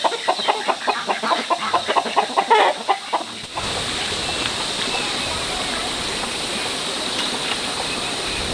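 Chickens clucking rapidly, then about three and a half seconds in the sound cuts abruptly to the steady rush of running water.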